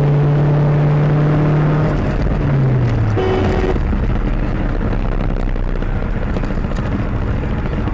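Car driving at speed, heard from inside: steady road and engine noise, with a low droning tone that holds for about two seconds and then falls away, and a short higher tone about three seconds in.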